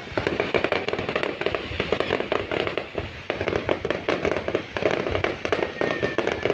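Fireworks display: a dense, continuous run of crackles and pops.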